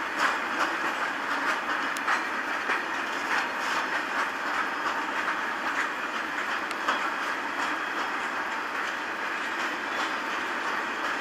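Open box wagons of a freight train rolling past, their steel wheels clicking and clacking over the rail joints through a steady rumble and rattle.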